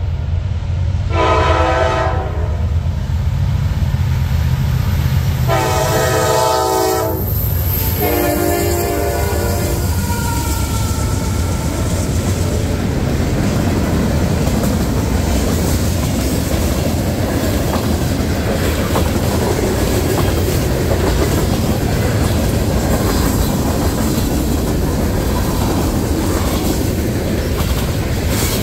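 Diesel freight locomotive sounding its horn three times in the first ten seconds, over the low rumble of its engines, then a train of freight cars rolling past with wheels clicking over rail joints.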